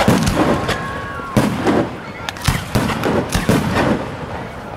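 Fireworks display: a rapid series of shell bursts, bang after bang. A steady high whistle sounds over the first bangs and stops about a second and a half in.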